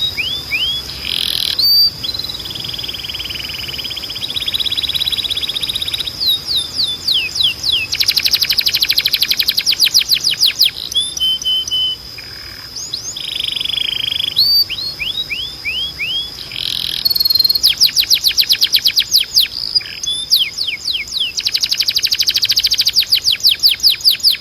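Domestic canary singing: long rolls of rapid repeated notes, about ten a second, alternating with runs of quick sliding whistles, over a steady high tone.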